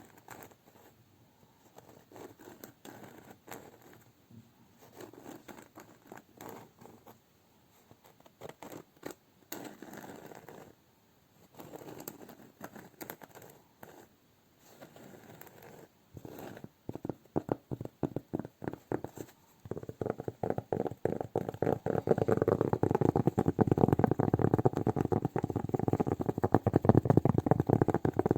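Close-miked hand sounds, rubbing and tapping: soft, broken-up rustles and taps at first, turning into a dense, fast stream of small crackling, sticky ticks that grows louder about two-thirds of the way in.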